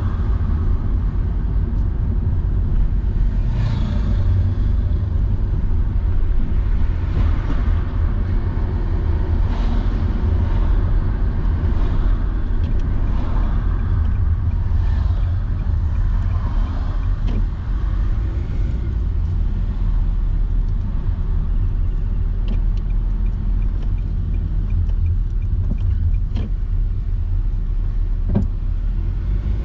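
Car driving along a road: a steady low rumble of road and engine noise, with a few light knocks from bumps along the way.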